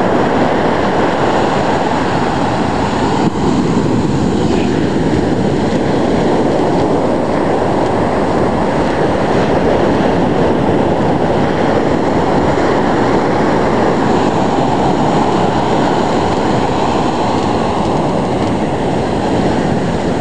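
Ocean surf breaking and washing up the beach at close range: a steady, loud rush.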